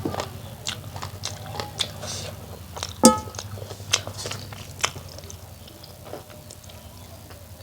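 Close-up eating sounds of chicken curry and rice: wet chewing, with many short smacking clicks. A single loud clink with a brief ringing tone comes about three seconds in. A steady low hum runs underneath.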